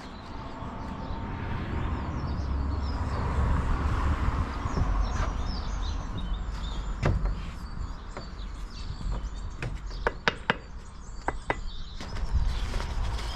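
Roof tiling work: sharp knocks and clicks of tiles and tools being handled and set into mortar, with a quick cluster of them a little past halfway, over a steady low rumble.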